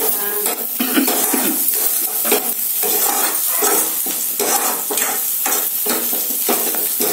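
Chopped onion sizzling in hot oil in a non-stick kadhai, with a metal spoon stirring and scraping the pan about twice a second. The tadka is being fried toward brown.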